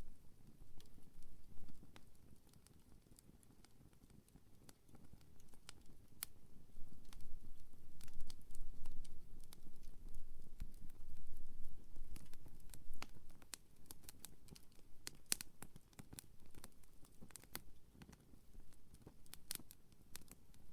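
Wood campfire burning, with scattered sharp crackles and pops over a low rumble of the flames. The rumble swells for a few seconds near the middle, and the pops come thicker towards the end.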